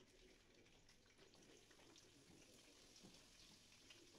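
Faint, continuous crackling sizzle of potato sticks frying in oil in a steel wok.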